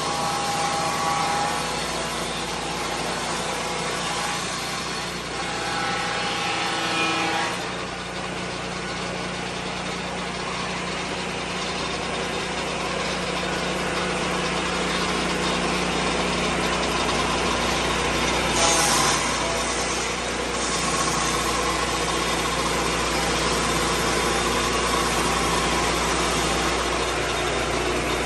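A Lucas Mill swing-blade sawmill's engine runs steadily, settled near idle. A brief burst of hissing noise comes about two-thirds of the way in.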